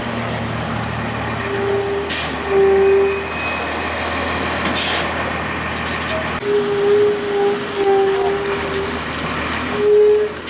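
Blue Bird CS transit bus with its Cummins ISC diesel running at a low rumble, which drops away about six seconds in. The air brakes hiss twice, about two and five seconds in, and short steady tones come and go.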